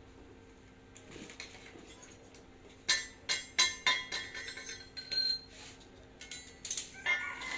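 Metal tools and parts clinking and knocking together, a quick run of sharp clinks in the middle with brief ringing, over a steady low hum.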